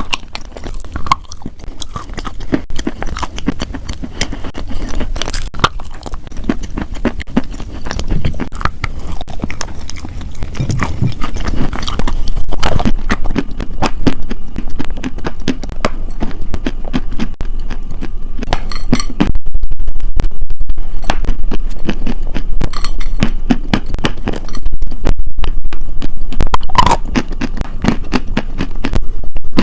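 Close-miked chewing of crunchy food: repeated loud, irregular crunching and crackling bites, louder in the second half.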